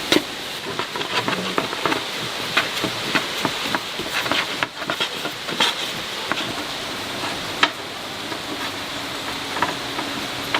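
Irregular light taps and clicks of kitchen utensils being worked, over a steady hiss.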